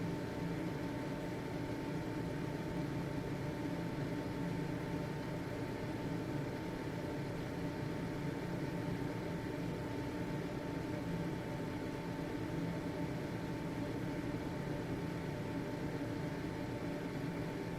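Household ventilation fan running steadily: an even motor hum with a thin steady whine above it and an airy hiss.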